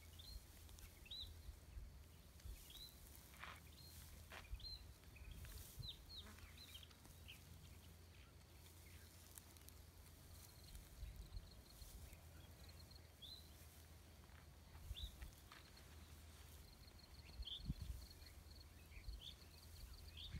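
Quiet outdoor ambience: small birds give short chirps again and again, over a low steady rumble, with a few soft rustles about three and four seconds in.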